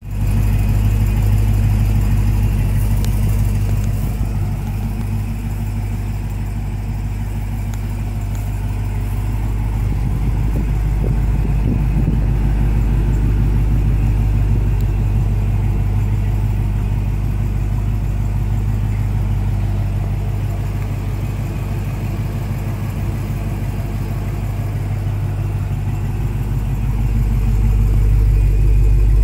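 Dodge Charger SRT Hellcat's supercharged 6.2-litre HEMI V8 idling steadily, getting a little louder and softer by turns and loudest near the end.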